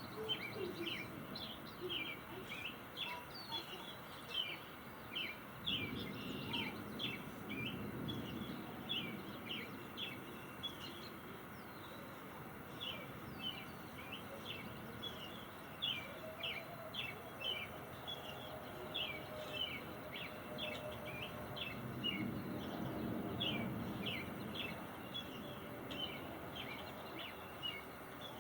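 Birds chirping over and over in quick short notes. A long low rumble swells and fades twice, about six seconds in and again about twenty-two seconds in.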